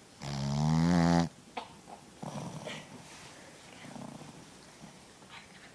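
Puppy snoring: one loud, pitched snore lasting about a second near the start, then softer snoring breaths.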